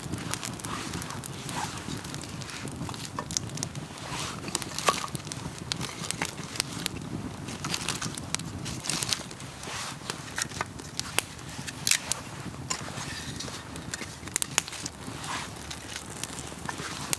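Campfire crackling, with sharp pops and snaps at uneven intervals over a low steady rush of the burning fire.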